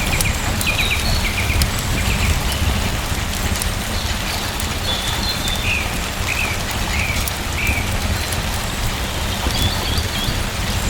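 Steady rain falling, with a low rumble underneath and scattered faint ticks of drops. A bird chirps repeatedly through it, in short high notes.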